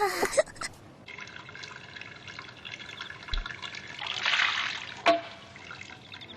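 Running, trickling water, with one sharp knock about five seconds in.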